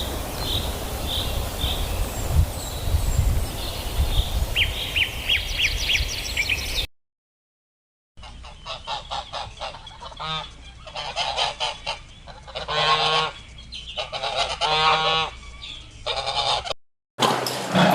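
Small birds chirping in short repeated calls over wind rumble. After a brief silence at a cut, waterfowl give a series of harsh honking calls, the loudest about 10, 13 and 15 seconds in.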